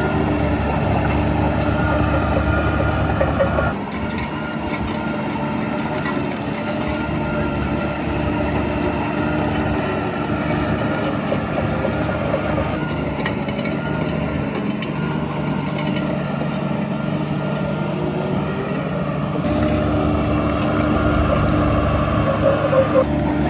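Heavy diesel engine of earthmoving machinery running steadily. Its low rumble eases off about four seconds in and builds again a few seconds before the end.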